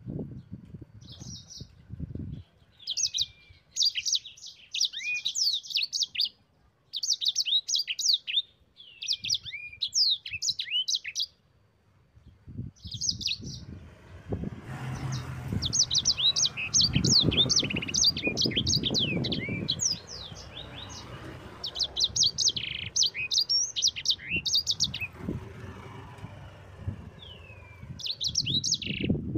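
Yellow-fronted canary ('sanger' or 'mozambik') singing: phrases of rapid high trills and sweeping notes, repeated with short pauses. A low rumble of background noise rises under the song around the middle.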